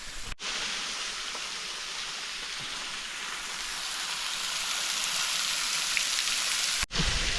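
Water from a waterfall's streams falling and splashing like heavy rain: an even, steady hiss that grows slowly louder. It starts and stops abruptly.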